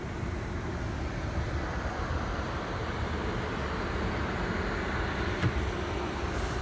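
Steady road and engine rumble of a car heard from inside, with one light click about five and a half seconds in.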